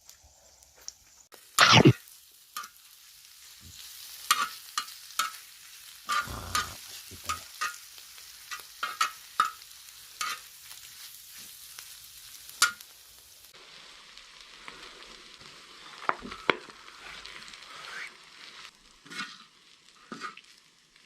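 Food sizzling on a cast-iron cauldron-lid griddle while it is stirred and turned, with frequent sharp clicks and scrapes of utensils on the metal and a loud knock about two seconds in.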